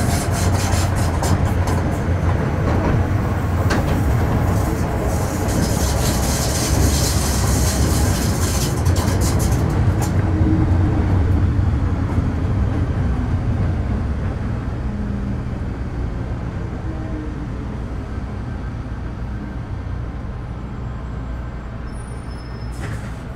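Metro Cammell M-Train electric multiple unit heard from inside the car, running with a steady low rumble of wheels on track. For the first ten seconds there is dense high-pitched rattle and crackle. After that it grows gradually quieter as the train slows, with a faint gliding whine from the GEC GTO chopper traction equipment.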